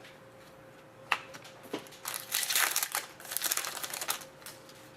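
Crinkling of plastic packaging as trading cards are handled, most likely a card pack wrapper. A couple of light clicks come about a second in and just before two seconds, then a dense crinkle runs from about two to four seconds in.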